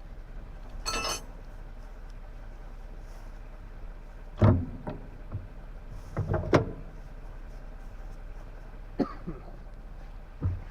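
Metal clinks and knocks from hand tools and parts while the steering cylinder is worked loose from a Ford 4630 tractor: one ringing clink about a second in, then several short heavier knocks, over a steady low hum.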